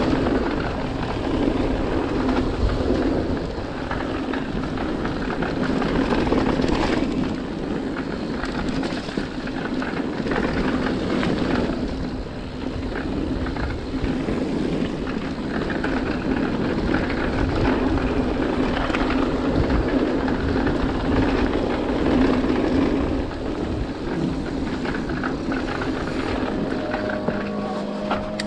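Mountain bike descending a trail at speed: a continuous rumble of tyres over the trail surface, with wind rushing over the camera microphone.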